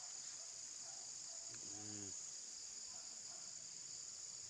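Steady high-pitched chorus of crickets in the evening. A brief low murmur about two seconds in.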